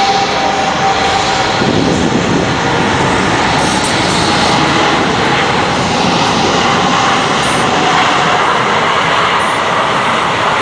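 Airbus A380's four jet engines during its landing: a loud, steady rushing noise with a faint whine that fades out over the first half.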